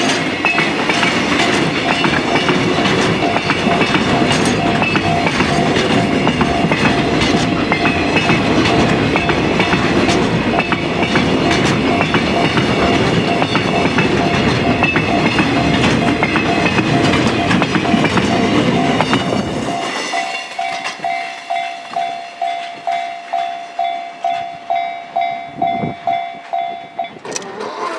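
Freight train's container wagons rolling past with steady wheel clatter on the rails, with a level-crossing warning bell ringing under it. About two-thirds of the way through the train noise falls away and the crossing bell is left ringing clearly, about twice a second, until it stops near the end.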